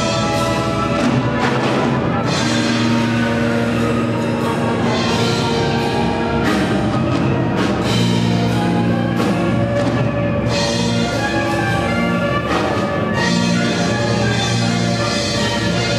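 Orchestral music with sustained chords and timpani and percussion accents, several strong hits spread across the passage.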